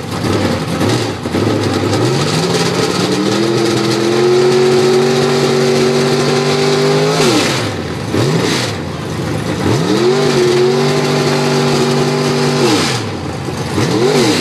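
Retired IMCA modified race car's alcohol-burning 420 cubic-inch small-block V8 revved up and held high for several seconds, then let down, blipped once, revved and held again, and blipped twice near the end.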